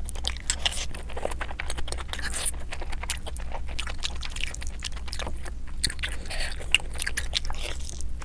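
Close-miked chewing of soft, cheesy food: wet mouth smacks and many small clicks, with a spoon scooping from a baking dish partway through. A steady low hum runs underneath.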